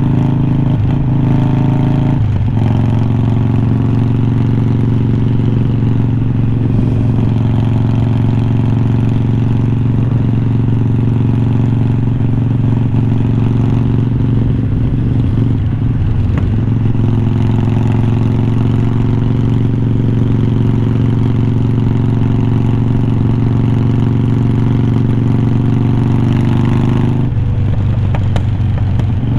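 Harley-Davidson Iron 1200's air-cooled 1200 cc V-twin running through unbranded slip-on mufflers much like glass packs, at a steady engine note. The pitch changes about two seconds in, again around the middle, and a couple of seconds before the end.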